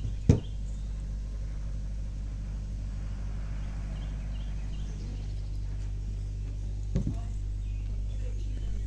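Steady low machine hum, with two sharp knocks, one just after the start and one about seven seconds in.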